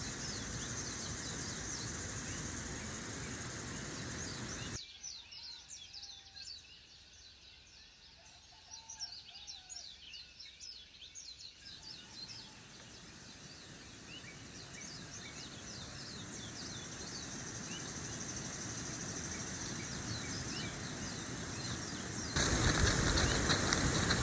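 Tropical jungle ambience: a steady high insect drone and many short bird chirps over a broad hiss. The hiss drops away suddenly about five seconds in, builds back slowly, and jumps louder near the end.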